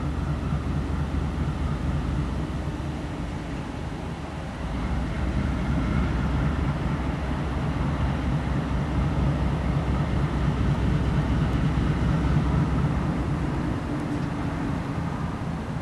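GE C36-7i diesel-electric locomotive, its 16-cylinder GE FDL diesel engine running with a steady low rumble that grows louder about five seconds in.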